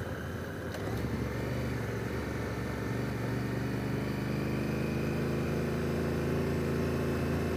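2017 Honda Africa Twin's 998 cc parallel-twin engine running under way on a gravel road. It picks up slightly about a second in, then holds a steady note.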